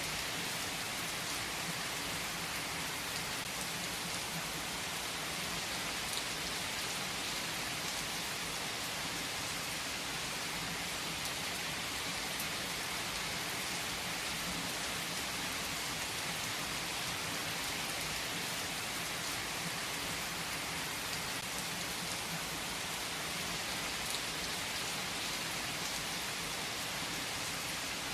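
Steady rain falling on surfaces: an even, unbroken hiss with occasional individual drops ticking through it.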